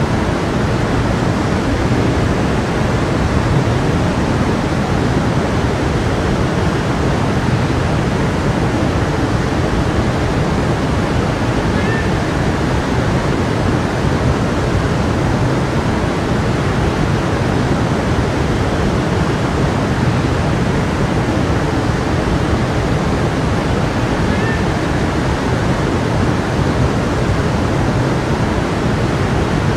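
A brook flowing: a steady, unbroken rush of water.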